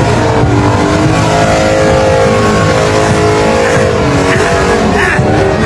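Dirt bike engine running at high revs, a steady drone that fades about four seconds in.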